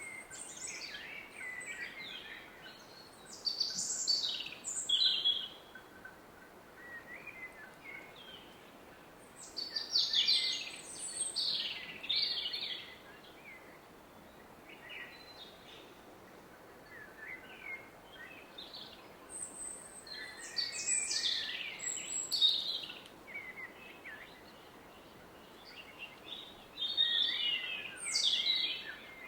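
Songbirds singing in bouts of a few seconds, high rapid chirping phrases that come about every eight seconds, over the steady roar of a distant river.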